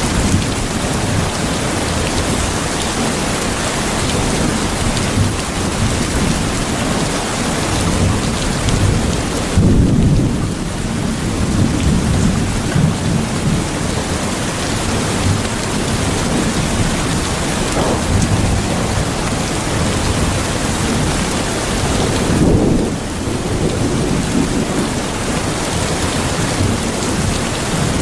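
Steady heavy rain falling, with low rolls of thunder about a third of the way in and again a little past two-thirds.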